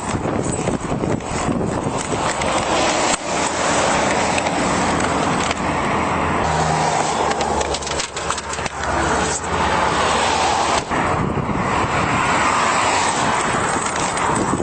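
Car travelling at speed: steady, loud road and wind noise, with scattered knocks and clicks.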